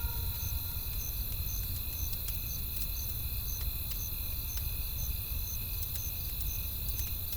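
Crickets chirping steadily, about two chirps a second, over the low rumble of a wood campfire with a few sparse crackles.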